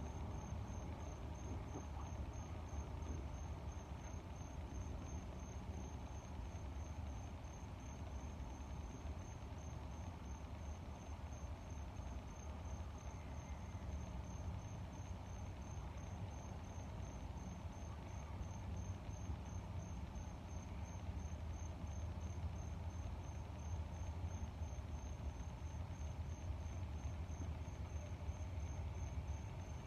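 A cricket chirping steadily, a high-pitched pulse about twice a second, over a steady low rumble of moving air.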